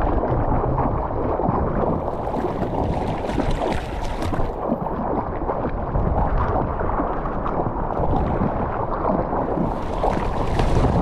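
Strong wind buffeting the action camera's microphone, with seawater splashing and sloshing close by; the splashing picks up around two to five seconds in and again near the end.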